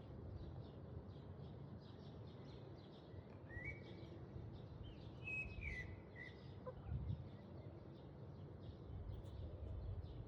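A few short bird chirps, some of them rising, in the middle stretch, over a low rumble and faint, rapid high ticking.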